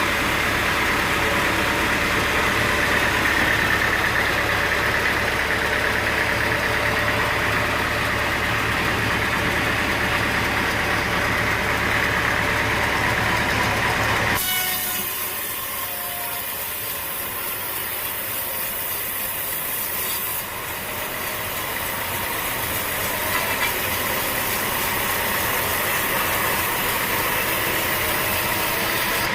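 Sawmill machinery running with a steady engine-like noise. About halfway through, the sound changes abruptly: the deep rumble drops away, leaving a thinner, hissier sound.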